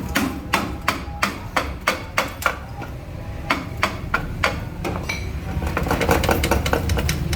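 Hammer striking repeatedly in a workshop, about three sharp blows a second. There is a short pause about three seconds in, then more blows, then quicker, lighter taps near the end.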